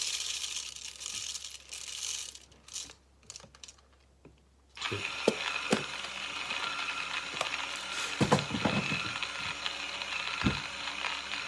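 Coffee grinder grinding beans: a steady crunching rattle with sharp clicks that sets in about five seconds in. Before it, coffee beans rattle and hiss as they go into the grinder, then a few clicks and a short near-quiet pause.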